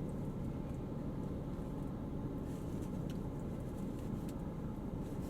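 Steady low rumble inside a parked car, with a few faint small clicks about halfway through.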